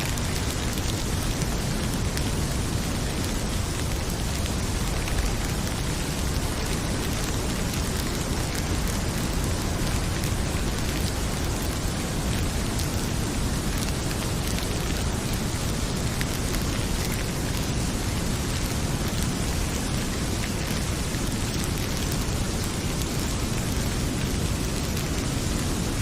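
Heavy rain falling steadily as a dense, even hiss, mixed with the fine crackle of a wood fire in a fireplace.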